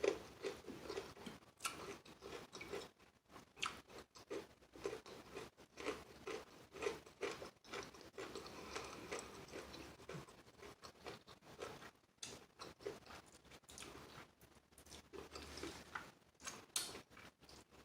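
Close-up eating sounds: crispy fried chicken wings being bitten and chewed, with many short, irregular crunches and crackles.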